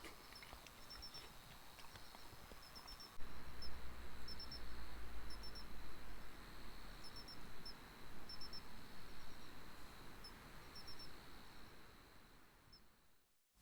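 Crickets chirping: short high chirps in little groups of two to four over a steady trill. A low rumble comes in about three seconds in, and the sound fades out just before the end.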